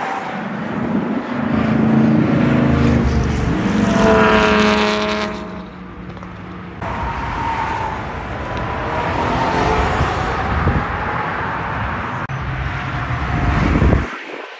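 Performance cars accelerating hard away from a car meet, one after another, with engines revving and rising in pitch as they pull away. The loudest rise comes about four seconds in. Another car's engine takes over about seven seconds in.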